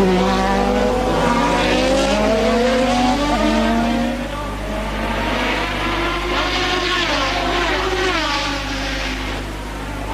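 Formula One cars' engines accelerating and passing, their pitch climbing through each gear and dropping at every upshift, several times over.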